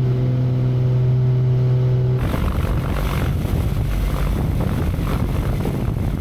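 Light airplane's piston engine and propeller running: a steady drone, which about two seconds in turns into a broad rushing noise.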